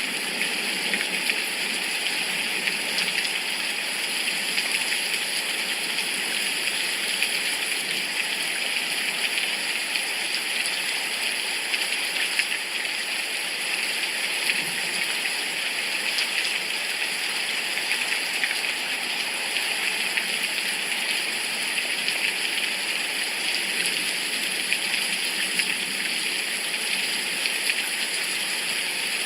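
Steady rain falling, a constant even hiss dotted with the patter of individual drops.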